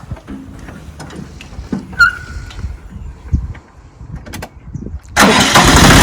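Siromer 304 tractor's diesel engine firing and catching suddenly about five seconds in, after a few quieter clicks, then running on. It starts straight away after hand-priming the fuel system, so the fuel system has been successfully re-primed after running dry.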